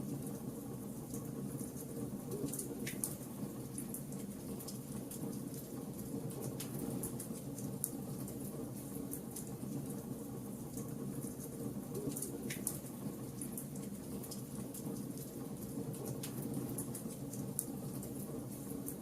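Wood fire burning: a steady low noise of flames, with frequent small crackles of burning wood and a few sharper pops.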